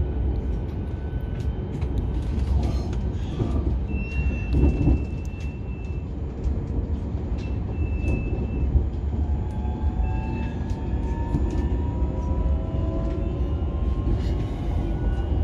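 Passenger train running, heard from inside the carriage: a steady low rumble with scattered clicks from the wheels over rail joints and points. A few brief high squeals come around the middle, and a faint whine rises slowly in pitch in the second half.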